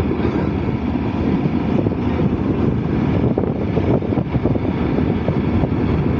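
Motorcycle riding at road speed: a steady engine drone mixed with wind rushing over the helmet microphone.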